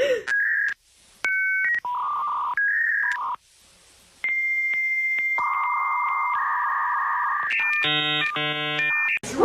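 A run of electronic beeps and held synthetic tones, each lasting half a second to a few seconds and jumping in pitch, with short breaks between them; near the end comes a quick string of buzzier tones.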